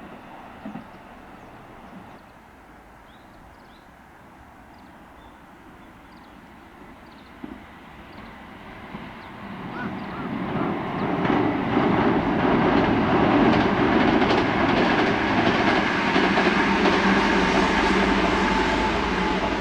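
Kintetsu electric train approaching and passing: quiet at first, then its rumble builds from about nine seconds in to a loud, steady run of wheels on rail.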